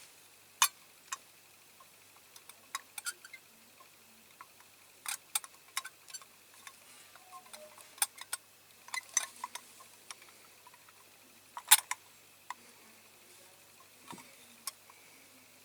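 Irregular small clicks and taps of diecast model parts being handled and worked into place by hand, with one sharper click a little before the end.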